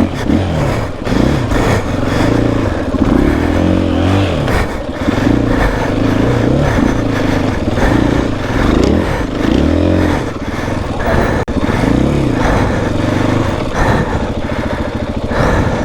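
Dirt bike engine revving hard, its pitch rising and falling again and again as the throttle is worked on a sandy hill climb, with a brief drop in loudness about eleven seconds in.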